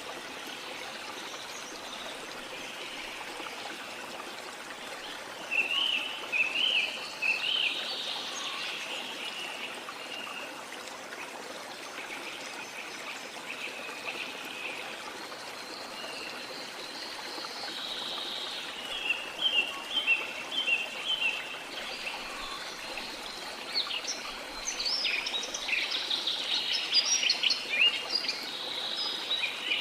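Steady rush of flowing water with rainforest birdsong over it: bursts of chirping calls about six seconds in, a run of quick repeated notes around twenty seconds, and busier, louder chirping near the end.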